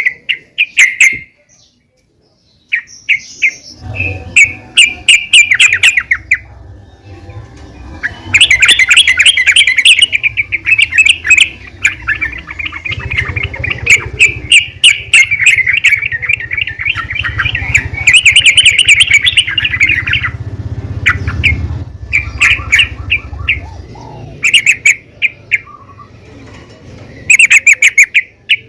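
Yellow-vented bulbul (trucukan) calls, given as a female's calls to lure a male: bursts of rapid, chattering chirps, some running for several seconds, with short gaps between. A low hum runs underneath through most of the middle.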